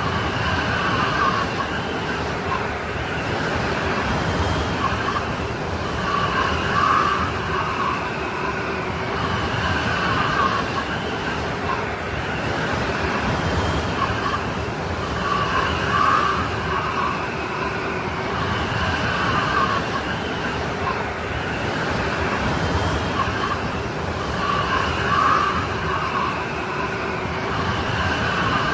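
Strong snowstorm wind blowing steadily, with a wavering whistle that swells and eases every few seconds.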